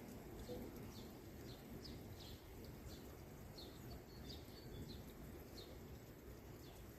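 Faint bird chirps, short high notes repeating every half second or so, over a steady low background rumble of outdoor noise.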